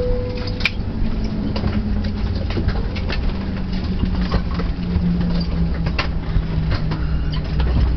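Airbus A320 cabin noise as the airliner taxis in after landing: a steady low rumble with a low hum that drops slightly in pitch, scattered short clicks and knocks through the cabin, and a tone that fades out in the first second.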